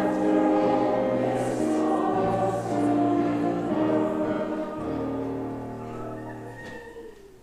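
Church congregation singing a hymn to piano accompaniment, the last chord fading away near the end.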